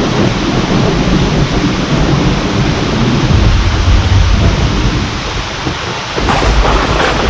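Steady heavy rain with thunder. A low rumble of thunder swells a few seconds in, and a sharper thunderclap breaks about six seconds in, rumbling on.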